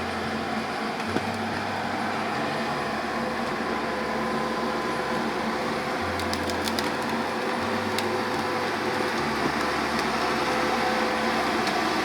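Diesel engine of a logging machine running steadily as it drags a load of cut trees, with a cluster of sharp cracks of wood snapping about six to seven seconds in and another about eight seconds in.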